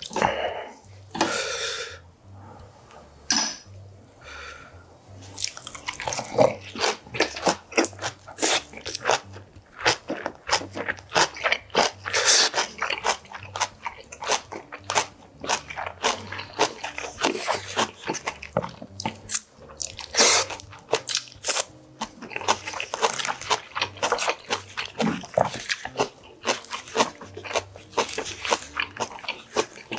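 Close-miked chewing of a lettuce-and-rice wrap: irregular crisp, wet crunching and mouth clicks, sparse for the first few seconds, then dense and continuous from about six seconds in.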